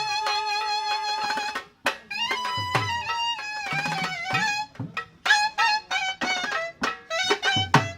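Traditional drum-and-pipe music: a wind instrument plays a wavering melody over drum strikes, with a brief break just before two seconds in.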